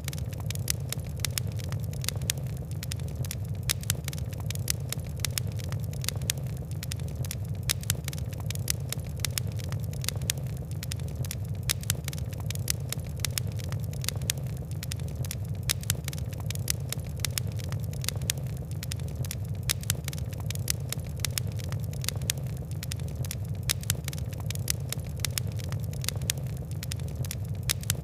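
Fire crackling: many small, sharp, irregular pops over a steady low rumble.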